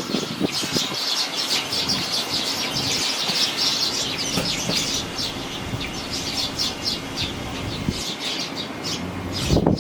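Fledgling sparrows chirping rapidly in a dense, continuous chorus, over wind buffeting the microphone, which swells into a strong low gust near the end.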